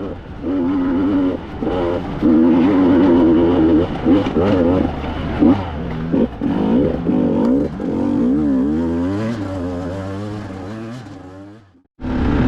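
Two-stroke dirt bike engines revving, the pitch rising and falling again and again with sudden changes between passages. The sound fades out near the end, and after a brief gap another engine comes in loud.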